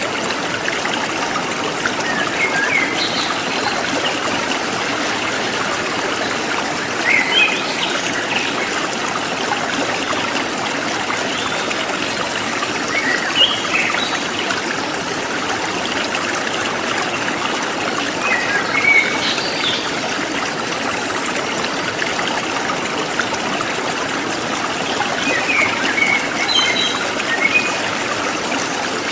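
Forest stream flowing steadily, with a small bird's short chirping phrases coming about every five to six seconds, five times in all.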